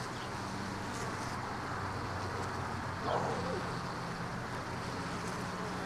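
Honeybees buzzing steadily around an open hive, with one louder, wavering buzz about three seconds in.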